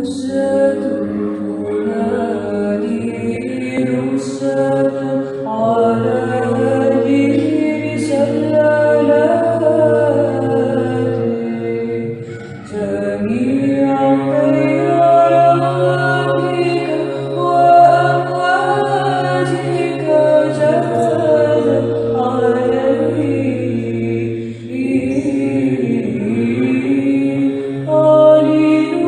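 Women's voices singing Byzantine chant a cappella in the third tone, a slow, ornamented melody over a steady held drone, with brief breaks between phrases about twelve and twenty-four seconds in.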